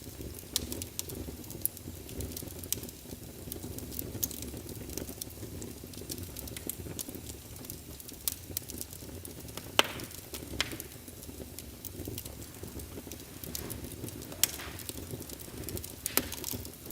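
Fire burning in a fireplace: a steady low rumble of flames with irregular sharp crackles and pops, the loudest about ten seconds in.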